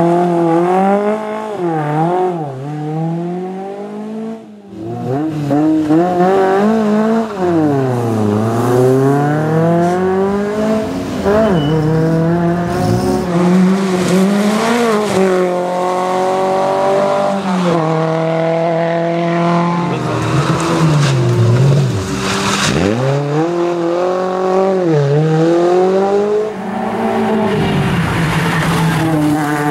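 Škoda 130L rally car's rear-mounted four-cylinder engine at stage pace, its pitch climbing again and again as it revs through the gears and falling on each lift-off and downshift. There is a short drop in level about four seconds in, and it holds steady high revs near the end.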